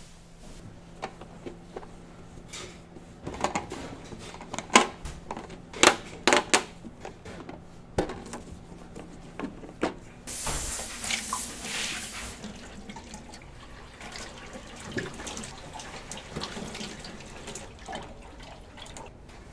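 Kitchen clatter, a string of sharp knocks and clicks over a low steady hum, then about ten seconds in a sudden two-second rush of water from a tap, followed by softer knocks.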